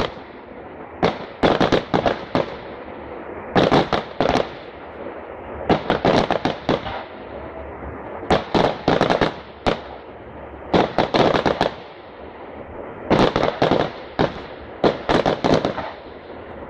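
Fireworks display, close by: volleys of aerial shell bursts and crackling reports, a cluster of several sharp bangs about every two seconds, with a low rumble between them.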